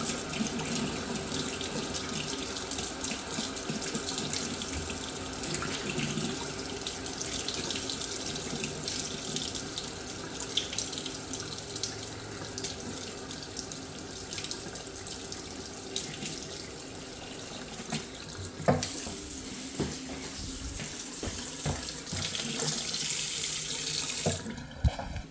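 Hot water tap running steadily into a sink, with a few knocks in the last seconds, and the flow cut off shortly before the end. The tap is run to test a Biasi combi boiler whose faulty flow-sensor turbine has just been replaced.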